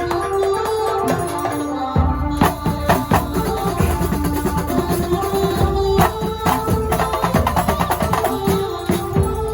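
Kuntulan music from Banyuwangi: a held melody line over hand and frame drums. The drums and a deep bass drum come in about two seconds in and then beat densely.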